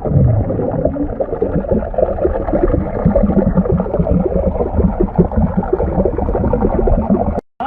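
Muffled water gurgling and sloshing close to the microphone, continuous and irregular, then cut off abruptly near the end.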